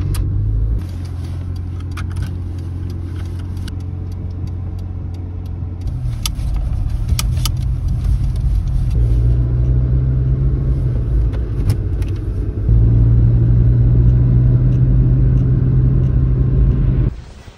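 An old Fiat car's engine and road noise heard from inside the cabin while driving. The engine note shifts in pitch and loudness several times, louder in the second half, with a few sharp clicks, and it cuts off suddenly near the end.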